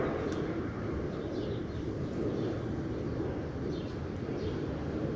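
A steady low rumble with faint short chirps above it, a few times over.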